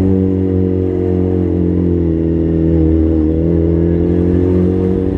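Inline-four sport motorcycle engine running at fairly steady revs while riding. The pitch sags slightly around the middle, then climbs back.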